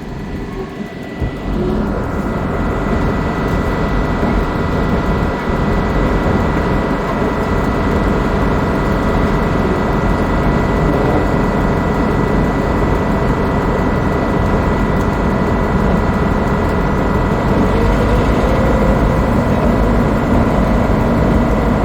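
Diesel engine of the V/Line P class diesel-electric locomotive P20 running under load while shunting, louder and steady from about two seconds in, with a steady high whine over the engine note.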